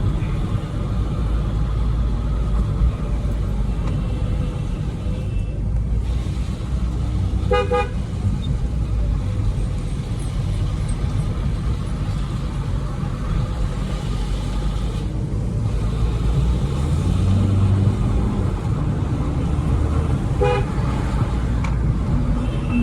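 Car interior with windows down on a wet road: a diesel engine's low running and tyre noise, with two short car-horn honks, one about a third of the way in and one near the end.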